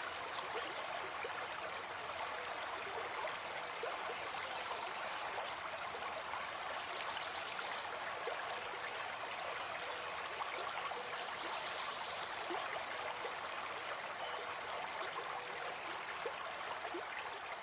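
Forest stream flowing and babbling steadily over stones, a continuous rush of water full of small splashes and trickles.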